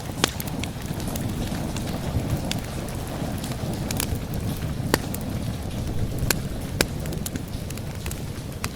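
Wood fire crackling, with a sharp pop every second or two at irregular intervals, over a steady low rumble and the hiss of rain.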